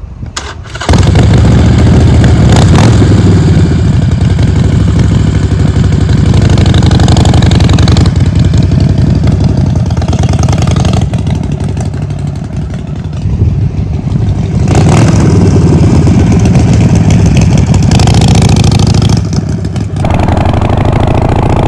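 Motorcycle engine starting about a second in, then running loud with a steady low throb, its level dipping and swelling a few times as the throttle is eased and opened.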